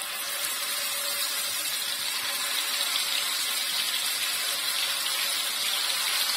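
Marinated chicken pieces frying in hot oil in a frying pan: a steady sizzle that picks up as more wet pieces are laid into the oil.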